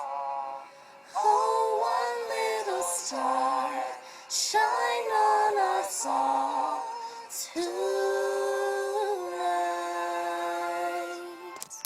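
A slow, gentle song is being sung: several short phrases with pauses between them, then a long held final note that starts about two-thirds of the way in and ends just before the close.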